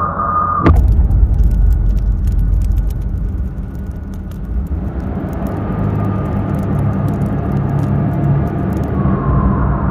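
A sudden loud hit about a second in, then a heavy low rumble like a running vehicle, with scattered clicks and crackles over it.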